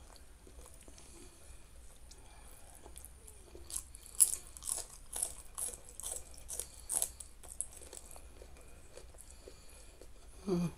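Close-up chewing of food, then from about four seconds in a run of sharp, crisp crunches for about three seconds as a raw green bean is bitten and chewed, before the chewing turns quieter again.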